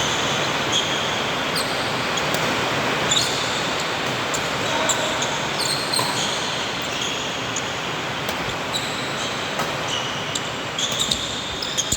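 Badminton rally on an indoor court: sharp racket strikes on the shuttlecock and short, high squeaks of shoes on the court floor over a steady crowd hubbub.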